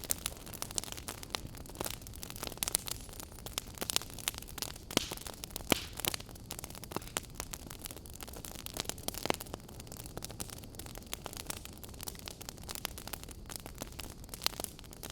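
Wood fire in a fireplace crackling: irregular sharp pops and snaps over a low steady hiss of the flames.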